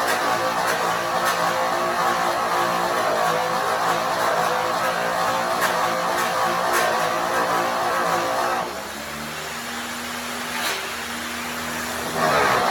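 Electric angle polisher with an airway buff running against an aluminum truck wheel during the cutting stage of a polish. About nine seconds in it eases off to a quieter, steadier hum, then bears down again near the end.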